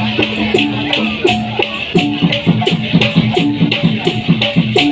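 Dikir barat ensemble music: hand drums beaten in a brisk, even rhythm with maracas shaking on the beat.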